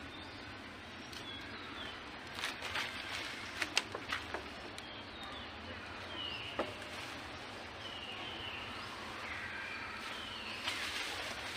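Outdoor ambience with a steady hiss. Birds give several short, falling chirps, and there is a cluster of sharp clicks a few seconds in, with one more click midway.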